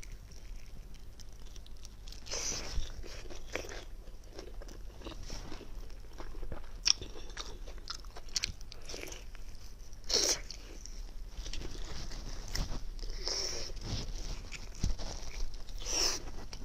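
A person biting and chewing raw chili peppers, with irregular crisp crunches every second or two.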